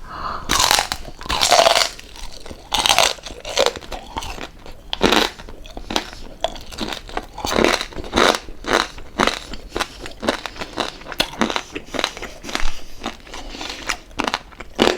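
Close-up chewing of crispy fried pork jowl, the crackling skin crunching loudly in irregular bites.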